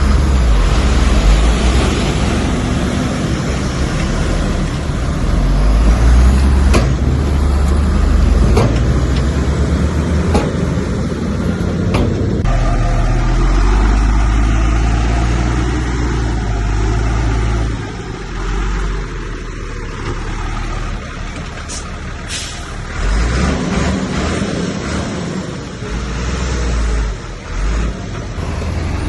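Heavy diesel earthmoving machinery working: a deep engine running hard and easing off in turns, with a few sharp knocks and clanks.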